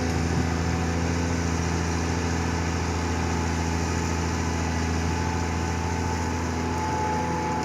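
Caterpillar 336D hydraulic excavator's diesel engine running at a steady speed, a low even hum.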